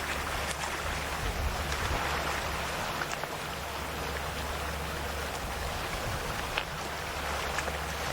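Calm sea waves lapping gently at the shore: a steady wash of water with small scattered splashes and ticks, and no large breaking surges.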